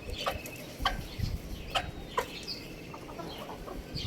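Young rooster clucking and chirping, a few short, sharp calls spaced irregularly.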